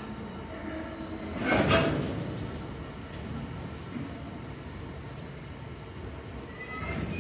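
Freight train of bogie tank wagons rolling past at close range, with a steady rumble of wheels on rail. A louder burst of rattle comes about a second and a half in. A thin, high wheel squeal starts near the end.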